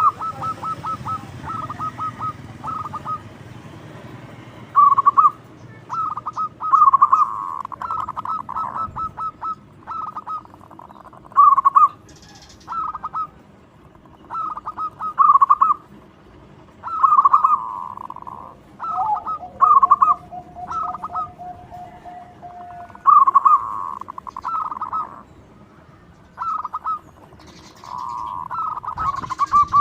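Zebra dove (perkutut) cooing: phrase after phrase of quick, staccato pulsed coo notes, loud and clear.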